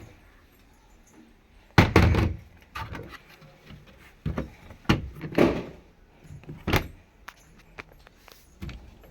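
A series of knocks and thuds from handling a semi-automatic washing machine, as its lids and parts are moved and set in place; the loudest knock comes about two seconds in.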